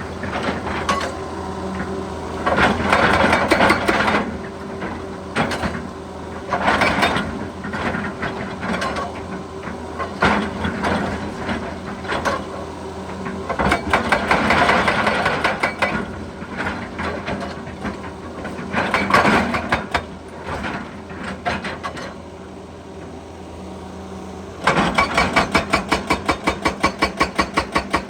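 An excavator's diesel engine runs steadily, broken by loud surges of grinding and scraping every few seconds. Near the end a rapid, even hammering starts, about four blows a second, typical of a hydraulic breaker hammer working rock.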